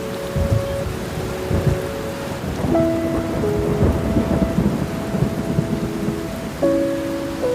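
Steady rain with low rumbles of thunder, under soft sustained music chords. A new chord comes in about three seconds in and another near the end.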